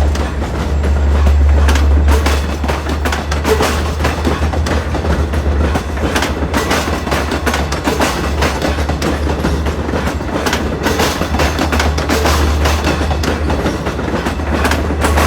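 A train passing close by, its wheels clattering over rail joints and switches in a quick, uneven run of clicks and knocks over a steady low rumble.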